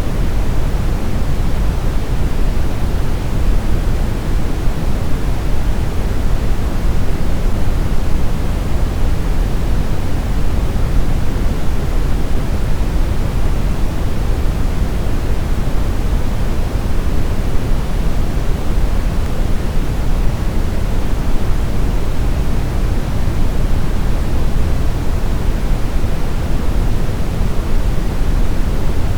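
Steady synthetic brown noise: an even, deep rumbling hiss with its energy heaped in the lows and thinning toward the highs, unchanging throughout.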